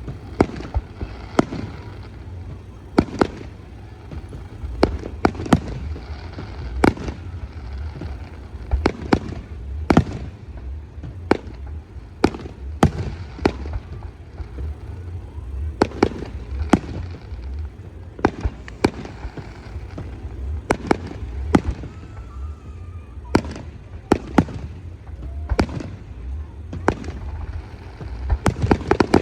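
Aerial fireworks display: a steady run of sharp bangs from exploding shells, one or two a second, over a continuous low rumble.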